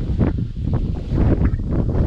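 Wind buffeting the microphone in a gusty low rumble, with short scratchy rustles scattered through it.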